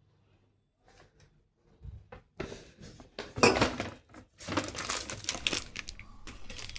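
Objects being handled at close range: rustling and crinkling mixed with light clattering and clinks, starting about two seconds in.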